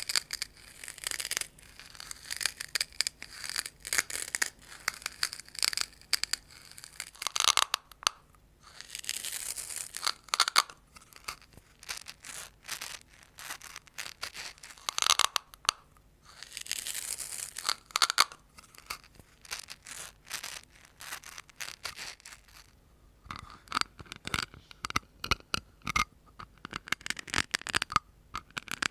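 Close-miked ASMR tapping and scratching: runs of quick, sharp taps broken by longer scratching strokes, without any speech.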